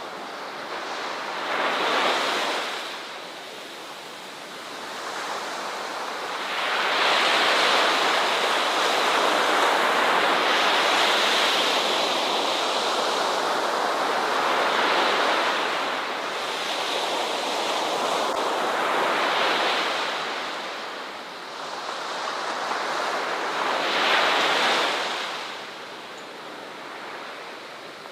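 Ocean waves breaking on a beach, a steady wash of surf that swells and ebbs: a small surge about two seconds in, a long loud stretch of breaking water through the middle, and another surge near the end.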